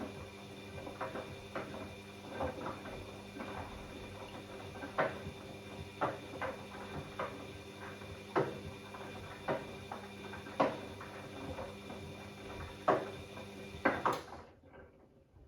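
Bosch Classixx 6 front-loading washing machine turning its drum in the early wash, with a steady motor hum and whine. Laundry and water in the drum make irregular soft knocks and clicks. The sound stops abruptly about a second before the end.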